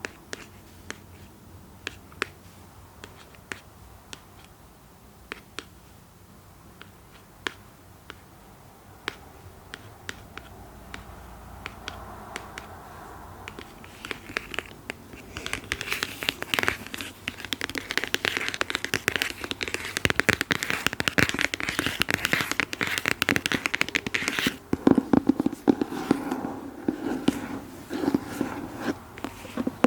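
Close ASMR trigger sounds: scattered single taps for the first half, then from about halfway a dense, continuous scratching that grows louder, turning lower and duller near the end.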